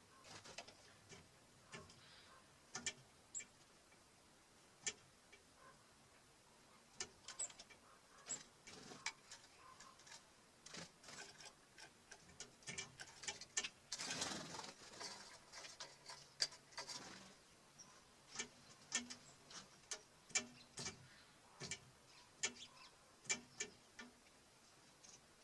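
Birds pecking seed on a wooden bird feeder: irregular sharp taps and clicks, with a short rustling burst about halfway through.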